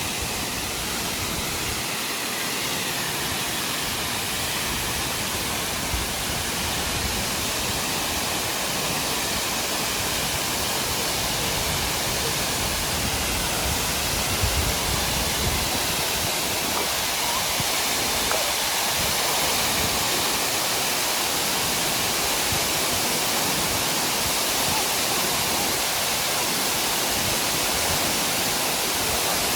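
Steady rushing of water falling at Aber Falls, the 37-metre waterfall: a dense, even hiss with no breaks.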